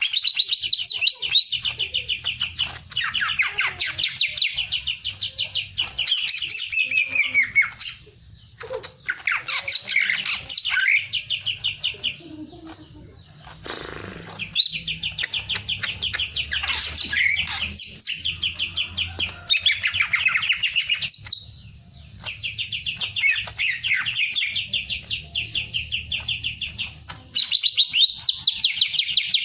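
A songbird singing long, fast trilled phrases of rapidly repeated high notes, each run lasting several seconds with short pauses between, the energetic nonstop song that bird keepers prize.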